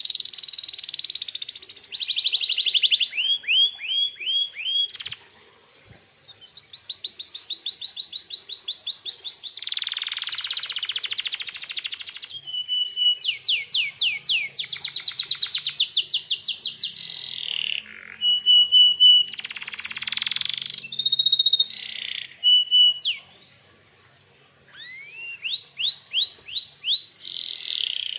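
Domestic canary singing a long, varied song of fast trills and rapidly repeated notes mixed with short whistles, with brief pauses about five seconds in and again about three-quarters of the way through.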